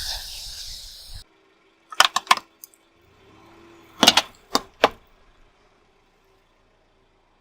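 Sharp cracks and snaps of something crunchy breaking under a car tyre: a quick cluster of about four, then three more about two seconds later.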